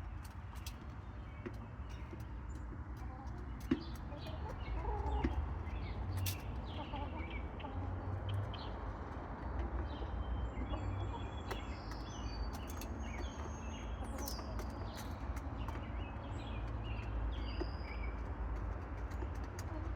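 Backyard chickens clucking, with short chirps of wild birds now and then, over a low steady rumble.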